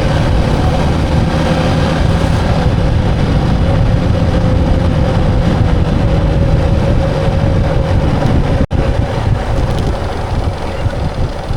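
Motorcycle engine running at a steady pace on the road, with wind noise on the microphone. The sound cuts out for an instant near the end, then carries on.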